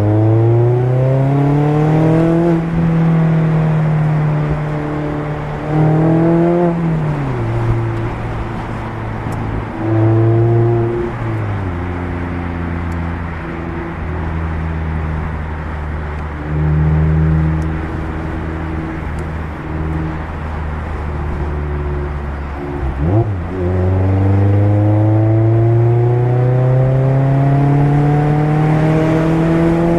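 2016 Mazda MX-5 Miata's four-cylinder engine through a Goodwin Racing RoadsterSport race exhaust, pulling through the gears. The pitch rises under acceleration and drops at each shift, with stretches of steady cruising in between and a long climb in revs near the end.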